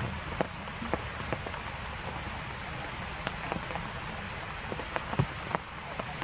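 Heavy rain falling in a steady hiss, with irregular sharp taps of single drops striking close by.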